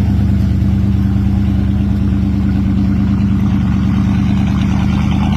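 1957 Chevrolet 210's 383 V8 idling steadily, an even low rumble with a regular firing pulse.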